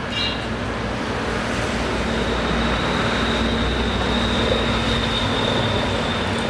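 A motor vehicle's engine runs with a steady low rumble, growing a little louder over the first couple of seconds, with a thin high whine from about two seconds in.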